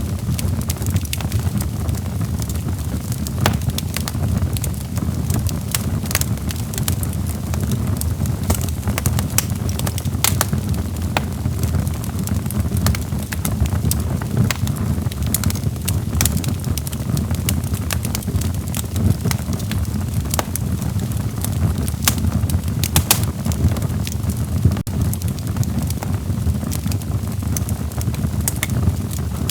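Log fire burning in a fireplace: a steady low rumble of flames with frequent sharp crackles and pops from the wood.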